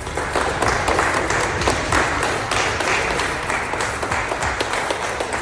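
A group of people clapping: steady, dense applause.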